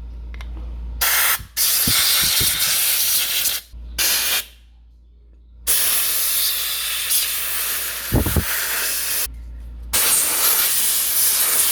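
Pressurised spray hissing in several bursts of one to three and a half seconds, each starting and stopping sharply, as engine parts of a scooter are cleaned.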